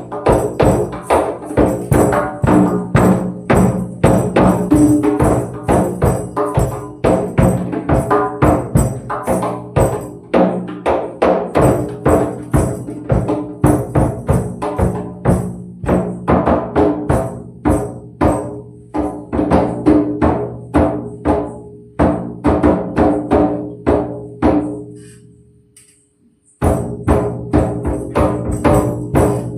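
Tambourine and hand percussion played in a steady rhythm of about three strikes a second, the jingles ringing over sustained low tones. Near the end the playing fades out, stops for under a second, then starts again abruptly.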